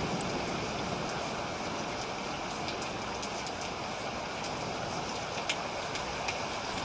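Steady rain falling, with a few sharp drop clicks, the loudest about a quarter of a second in.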